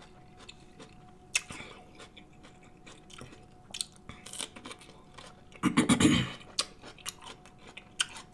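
Close-miked eating sounds from a man's mouth: wet chewing with smacking clicks and crunches, loudest in a short burst about six seconds in.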